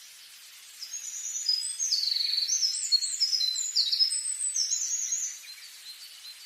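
A songbird singing one long, varied song of quick high notes and trills lasting about four and a half seconds, over a steady background hiss.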